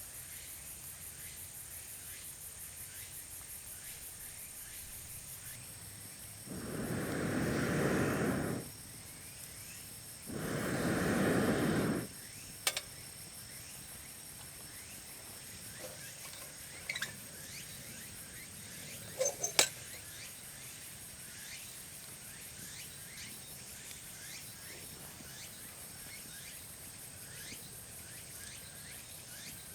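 Steady high-pitched insect chorus in a forest. Twice, a few seconds in, a loud rushing noise lasting about two seconds covers it, and a few sharp clicks and knocks come later.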